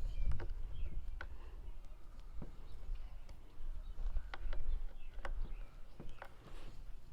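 Scattered light clicks and taps from hand tools and plastic chainsaw parts being handled during disassembly, about five or six separate clicks, over a low rumble that fades out after about five and a half seconds.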